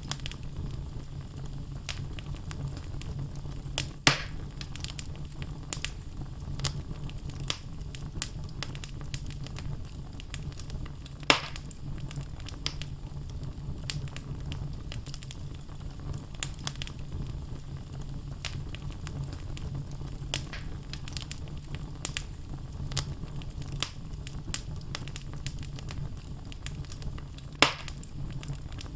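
Wood logs burning in a fireplace, crackling with frequent small snaps over a steady low rumble. Three louder pops stand out: about four seconds in, around eleven seconds, and near the end.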